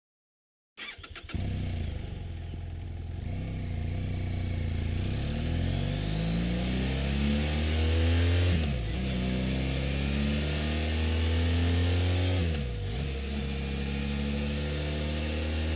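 BMW F900 GS Adventure's 895 cc parallel-twin engine through its stock BMW silencer. It starts about a second in and idles briefly. Then it is revved up three times, the pitch climbing steadily over a few seconds and dropping sharply back each time.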